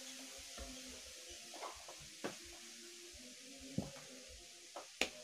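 Close-up eating sounds: chewing raw leafy vegetables, with scattered crisp clicks and soft knocks from handling leaves and plates, the sharpest near the end, over a faint steady hum.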